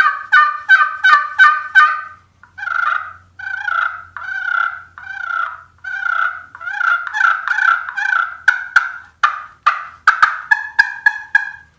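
Pot-style turkey call with a titanium-over-slate surface worked with a red haw striker, playing series of hen yelps, each note breaking over from a high note to a lower one. A quick run of yelps opens, then a slower run of longer notes, then another quick run near the end.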